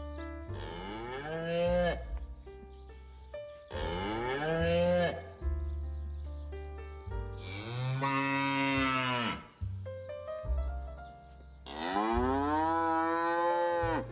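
Dairy cow mooing four times, about three to four seconds apart, each long call rising and then falling in pitch.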